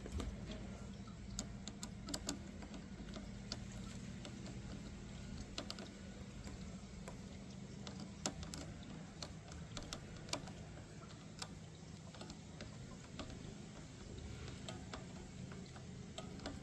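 Faint steady low hum with scattered light clicks and taps at irregular intervals, as of small metal parts and tools being handled.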